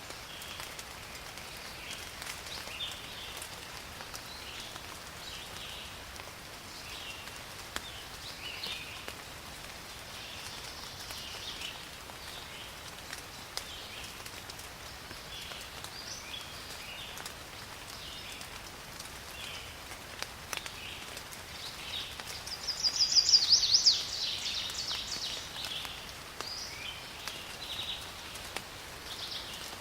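Steady rain falling in a forest, with birds chirping on and off throughout. About three-quarters of the way through, a louder, rapid trill of high notes rings out for about two seconds.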